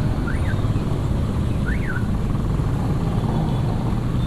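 Motorcycle riding in traffic: a steady low engine hum with road and wind noise on the action camera. Two short high chirps that rise and fall sound near the start and about two seconds in.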